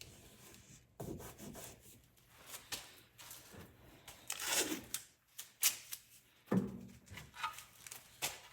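Rubbing and scraping handling noises with scattered clicks and knocks, including one longer sliding scrape about halfway through.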